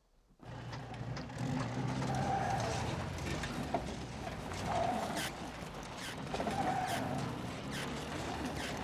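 A car's engine running steadily with a broad hiss over it. It starts suddenly about half a second in.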